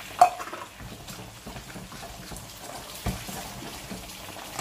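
Green chilies frying in hot olive oil, a steady sizzle. A sharp clink about a quarter second in and a dull knock about three seconds in.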